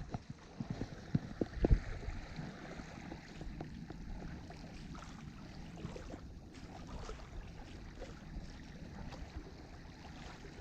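Faint steady wind noise on the microphone outdoors, with a few light knocks in the first two seconds.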